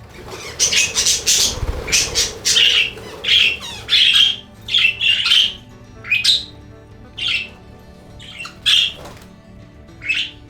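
Budgerigars calling in a run of short, harsh chirps and squawks, one after another, about one to two a second.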